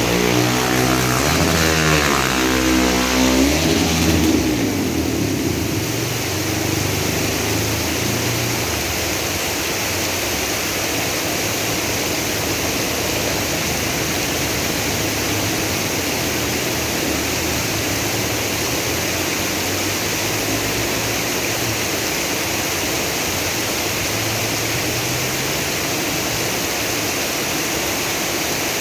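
Steady hiss of heavy rain and flowing floodwater, with a motor vehicle engine passing in the first few seconds.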